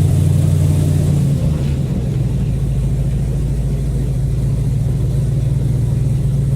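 Tour boat's engine running steadily, a low droning hum that eases back slightly about a second and a half in.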